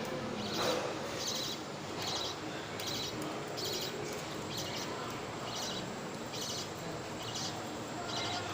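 Budgies calling: short, raspy, high chirps repeated about once a second.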